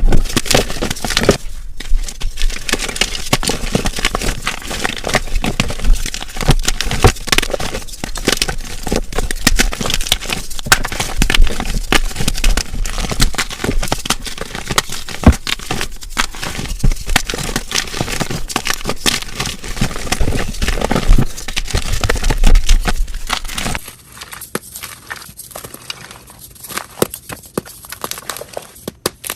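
Gym chalk being crushed and crumbled by hand, giving dense, loud crunching and crackling. About 24 s in it cuts to a much quieter, softer crumbling.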